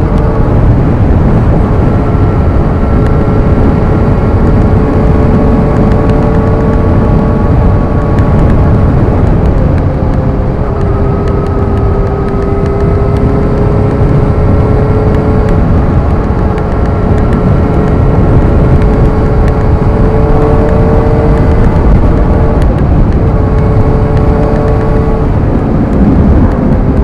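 Suzuki GSX-R sport bike's engine running at a steady cruise, its note sagging a little in the middle and rising again later, under loud, continuous wind rush on the rider's microphone.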